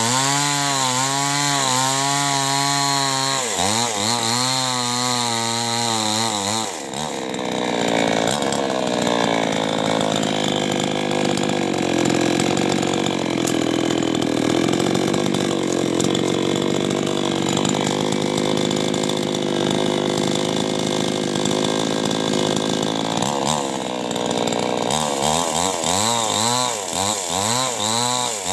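Two-stroke chainsaw running unloaded with its pitch wavering up and down. About seven seconds in it drops into a cut and runs under load through the wood for about sixteen seconds, then comes free and returns to the wavering unloaded note.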